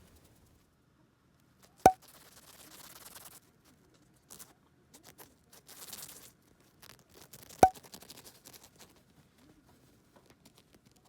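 Light scratching and rustling in two short stretches, as of a dwarf hamster scrabbling over the kotatsu's fabric. Two short, sharp, pitched pops about six seconds apart are the loudest sounds.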